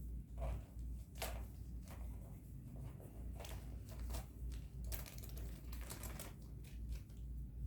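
Faint scattered clicks and rustles of hands handling a syringe and an upturned vaccine vial while the dose is being drawn up, over a low steady hum.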